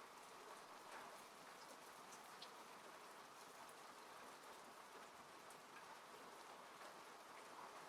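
Faint, steady rain falling on a car, heard from inside the cabin, with scattered individual drop ticks on top of an even hiss.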